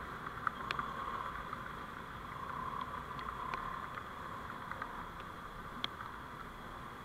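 Steady driving noise of a vehicle on the road, picked up by a dashcam microphone, with a few faint, irregular clicks.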